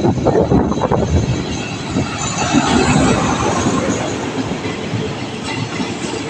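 A train running past at the station, its wheels clattering over the rail joints in a steady rush of noise, with a high hiss midway and a run of sharp clicks near the end.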